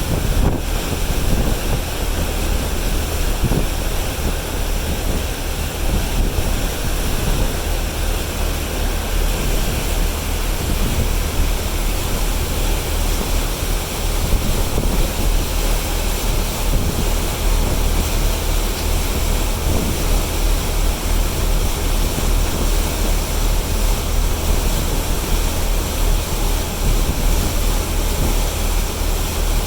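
Steady rush of wind and water, with a low, even engine drone underneath, as on or beside a ferry under way; wind buffets the microphone.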